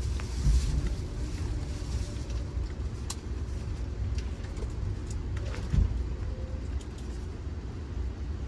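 Steady low rumble of a moving Amtrak Auto Train passenger car riding over the track, with two dull thumps, one about half a second in and a louder one near six seconds in.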